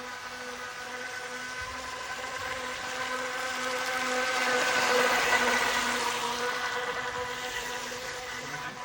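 Brushless electric motor of a small RC F1 racing boat whining steadily, with the hiss of its hull and propeller on the water. It grows louder to a peak about five seconds in as the boat passes close, then fades away.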